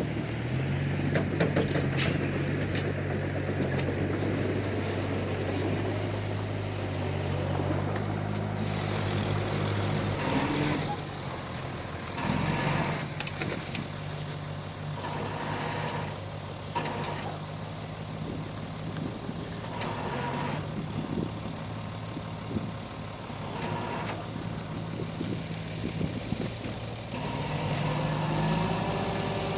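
Diesel engine of a Komatsu D31P crawler bulldozer running steadily while it works, its pitch dropping and shifting about a third of the way in and rising again near the end, with scattered short clanks.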